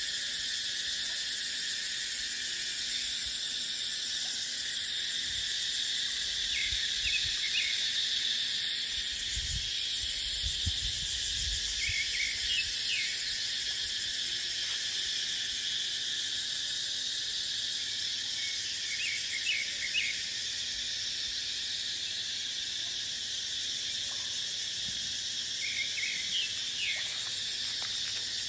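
Cicadas droning in a steady, dense high chorus, with short clusters of higher chirps every few seconds and a brief low rumble of wind about ten seconds in.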